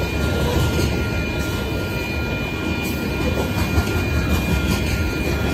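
Freight train of covered hopper cars rolling past, a steady heavy rumble of wheels on rail with a steady high-pitched tone held above it.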